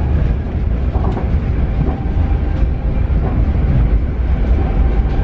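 Paris Metro Line 7bis train running on its rails, a steady heavy low rumble with faint steady tones above it and a few brief clicks from the wheels.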